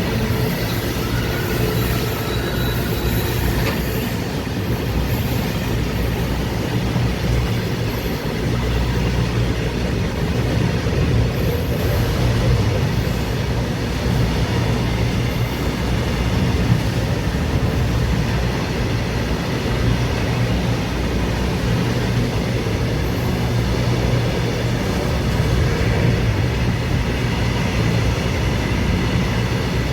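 Express passenger train running on the rails: a steady rumble of wheels and running gear with a low hum underneath.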